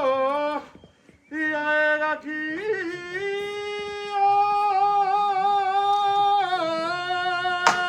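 A solo voice chanting a kagura song in long held notes with a slight waver. It breaks off briefly about a second in, then holds one note for about four seconds before stepping down.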